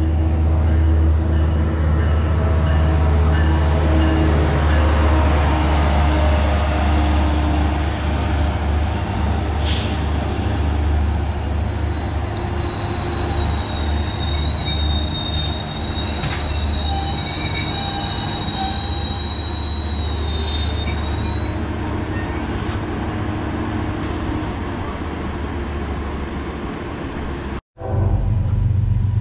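Train rolling through the station behind a diesel locomotive: a steady low engine rumble, with steel wheels squealing on the rails in several high tones for about ten seconds in the middle. The sound cuts off abruptly shortly before the end and a different low rumble follows.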